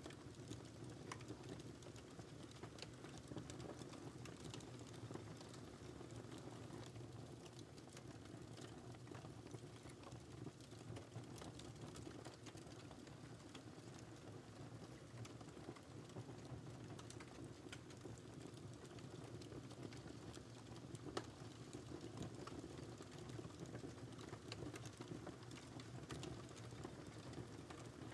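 Wood fire crackling in a fireplace: a steady low rumble of burning with many small scattered pops and snaps, and one louder pop about 21 seconds in.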